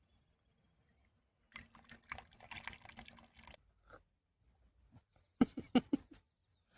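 Freshly boiled tea being poured into cups, a splashing trickle for about two seconds. Near the end a person's voice sounds briefly.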